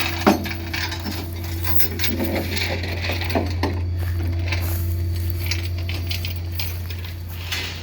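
An engine idling with a steady low hum, with scattered light metallic clinks and rattles over it, the sharpest just after the start.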